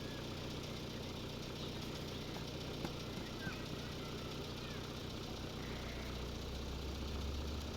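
A steady low hum, with a deeper tone joining about five and a half seconds in, and a few faint high chirps.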